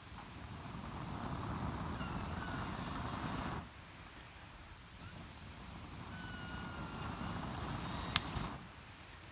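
A fire of kindling and feather sticks being blown on in two long breaths, each a rushing sound with a faint whistle that stops suddenly. A sharp crack of burning wood comes near the end.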